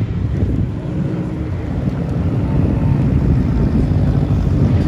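A car engine running loud at high revs, a deep steady rumble that grows slightly louder. Wind buffets the microphone.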